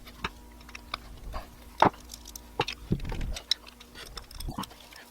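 Scattered light clicks and taps of hand tools and small metal parts on a motorcycle carburetor as work begins on removing its float bowl.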